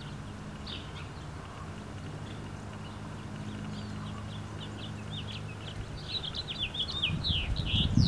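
Wild birds chirping, a few scattered calls at first, then a quick run of short high chirps in the second half, over a low steady hum. Several low thumps come in near the end and are the loudest sound.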